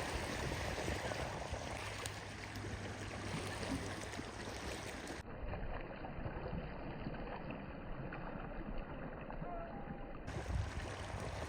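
Wind rumbling on the microphone over a steady wash of lake water.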